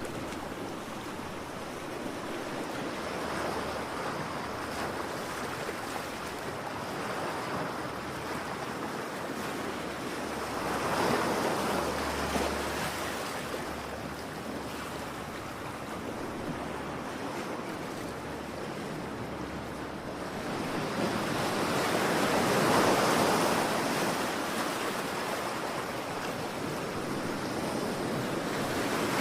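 Ocean waves surging and washing onto a shore: a continuous wash of surf that swells louder about a third of the way in and again near the end, with some wind on the microphone.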